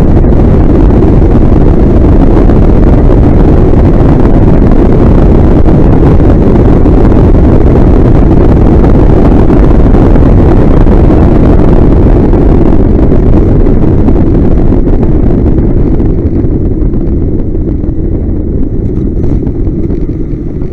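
A 1930 MR Type LM vintage car running on a hill climb, its engine noise heard loudly from a bonnet-mounted camera and mixed with wind buffeting the microphone. The sound is steady at first and dies down gradually over the last several seconds.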